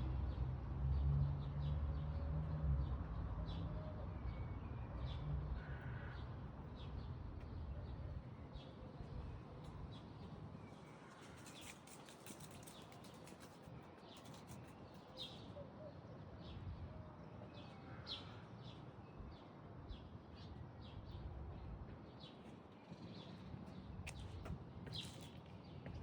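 Birds chirping: many short, high calls scattered throughout, over a low rumble during the first few seconds.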